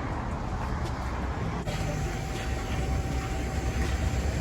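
Car engine running steadily, a low rumble. About two seconds in, the sound changes abruptly and a faint steady whine joins it.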